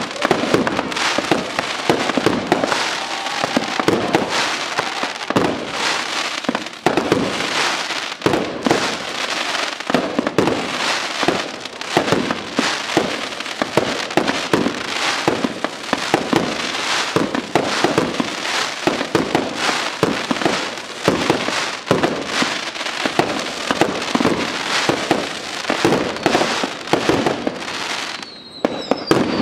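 Fireworks display: aerial shells and firecracker-type effects bursting in a quick, unbroken barrage, with a short lull near the end.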